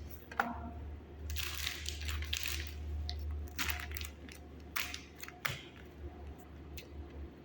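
Packaging being handled and opened: irregular crinkling and crushing noises with sharp clicks, over a steady low hum.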